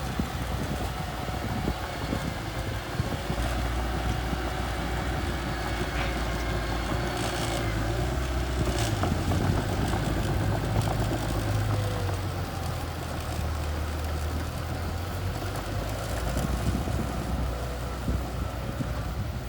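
Small bulldozer's engine running with a steady low drone; its note shifts and rises between about eight and twelve seconds in, and a few faint clicks sound over it.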